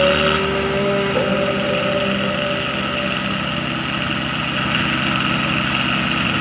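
Tractor diesel engine running steadily, with a brief held tone in about the first second.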